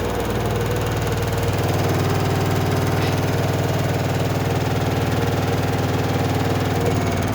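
LG washing machine running hard, a loud steady machine hum with fast, even vibration, as in a high-speed spin.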